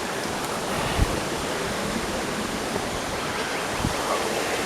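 Steady rush of water flowing over rocks, with two dull low thumps, one about a second in and another nearly three seconds later.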